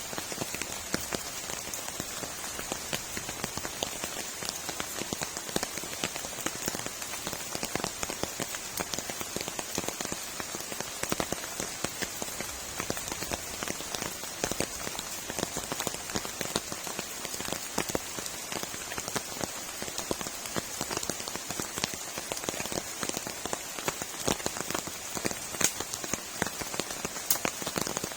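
Heavy rain falling steadily, a dense, irregular patter of drops hitting a surface.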